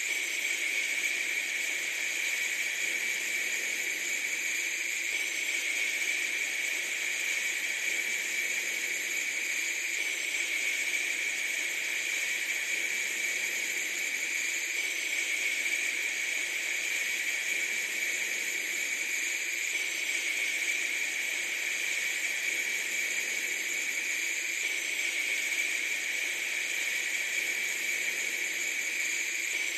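A steady, unchanging hiss, brightest in the upper middle of the range, with no low rumble and no breaks.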